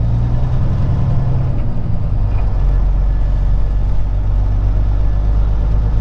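Peterbilt 379 diesel truck engine running, heard from inside the cab: a steady low drone whose pitch shifts slightly about a second and a half in.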